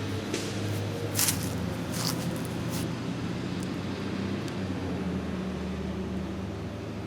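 A vehicle engine idling steadily with a low, even hum, with three brief scuffing sounds in the first few seconds.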